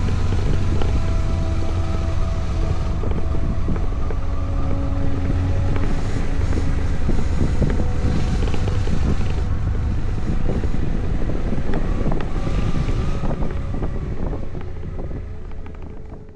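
KTM 390 Adventure single-cylinder motorcycle running on the road, with heavy wind rumble on the microphone. Fades out near the end.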